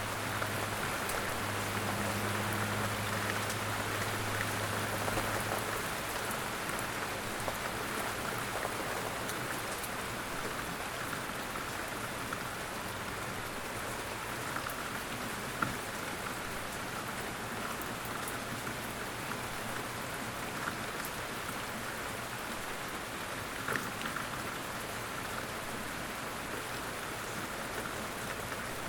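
Light rain falling steadily, with a few louder single drops now and then.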